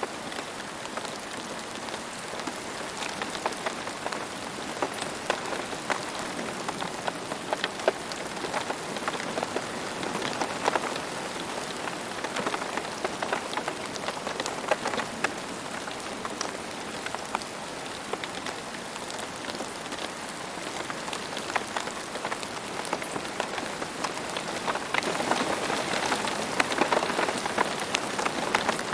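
Steady rain falling on a surface, a continuous hiss with many distinct drops ticking through it, growing a little heavier near the end.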